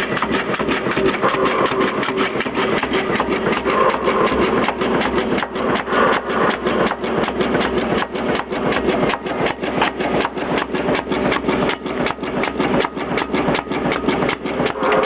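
Cardboard spine-cutting machine for hardcover bookbinding running, with a rapid, even clatter of repeated strokes over its motor noise.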